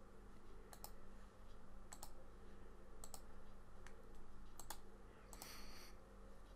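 Faint computer mouse clicks, scattered about once a second and often in quick press-and-release pairs, over a steady low electrical hum, with a brief rustle about two thirds of the way through.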